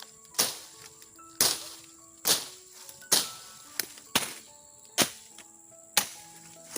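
A series of sharp strikes, about one a second, each dying away quickly, with short steady tones at different pitches heard between them.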